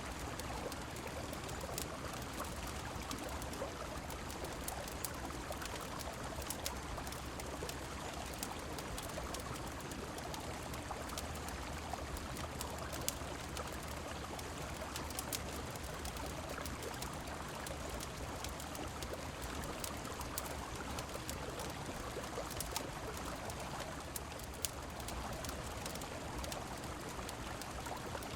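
A river flowing steadily with rain falling, mixed with the scattered sharp crackles of a wood fire in a fireplace.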